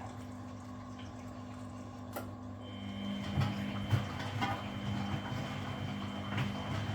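Front-loading washing machine running mid-wash: a steady motor hum with water sounds and scattered clicks. About three seconds in, a high thin whine starts and the hum gets stronger, as a motor comes up to speed.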